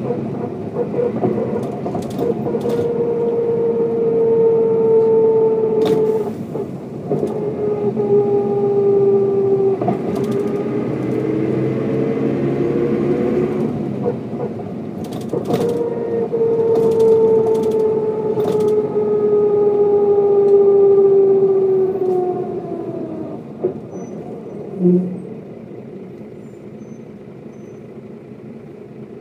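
Mercedes-Benz O407 city/overland bus under way, its diesel engine and drivetrain whining at a pitch that falls slowly, twice, with a jump back up in between. About 23 seconds in it drops to a quieter, steady running like idling, with one short louder sound a couple of seconds later.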